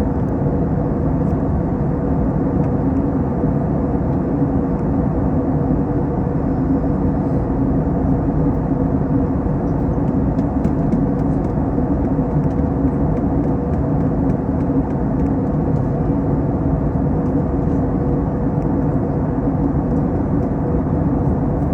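Steady drone of an Airbus A321 in flight, engines and airflow heard from inside the passenger cabin, with a low rumble and a couple of held hum tones that do not change.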